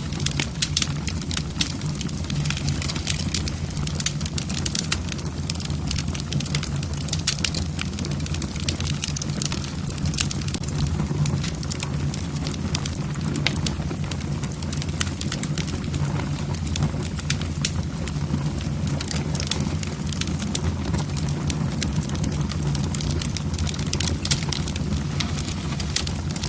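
Wood fire burning in a fireplace: logs crackling with frequent sharp pops over a steady low rumble of the flames.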